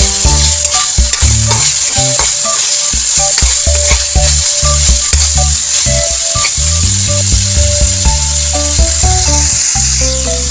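Diced pork belly sizzling in hot oil in a metal wok, with a spatula scraping and stirring the pieces now and then. Background music with held bass notes plays underneath.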